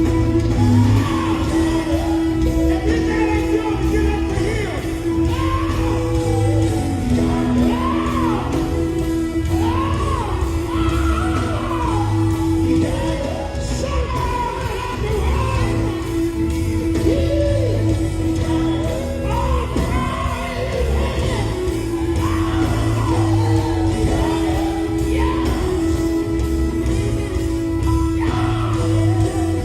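Live gospel quartet music: a lead singer shouting and bending notes over a band with a steady beat, a held note sounding underneath.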